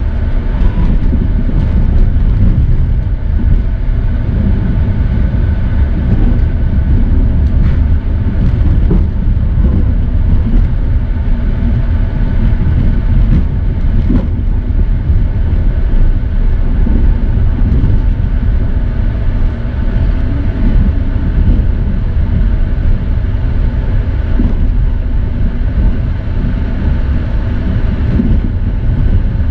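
Tezgam Express passenger train running along the track: a steady, loud rumble with a few faint clicks now and then.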